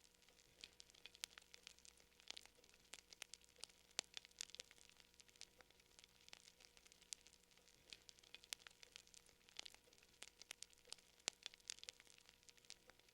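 Fire crackling faintly, with irregular small pops and snaps, often several a second.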